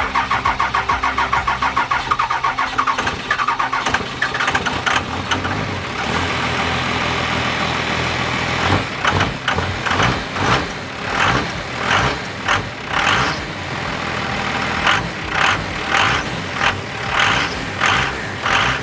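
An engine being cranked over by its starter without catching. It cranks quickly at first, then drops to slow, labouring turns, about one and a half a second, near the end.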